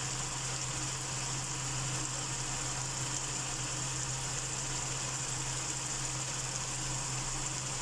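Pork binagoongan sizzling gently in oil in a wok: an even, steady hiss over a constant low hum.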